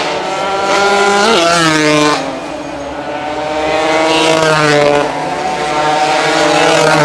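Several racing motorcycle engines at high revs, their pitch climbing and then dropping back with each gear change, so the sound swells and dips.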